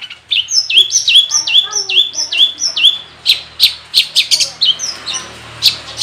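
Long-tailed shrike (cendet) singing a mimicry-filled song: a quick run of about eight hooked, down-slurred whistles, then a series of sharp chip notes, about two or three a second.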